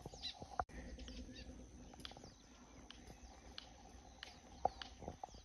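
Faint, scattered bird chirps: short high notes that sweep downward, spaced irregularly, with a few sharp clicks among them.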